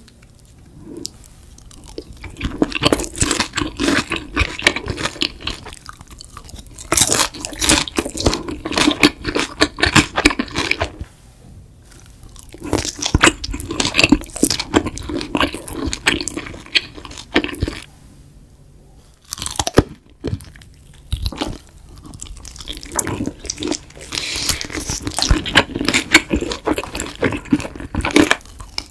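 Close-miked crunching and chewing of crispy Korean fried chicken: several spells of rapid crunchy bites, each a few seconds long, with short quieter pauses between.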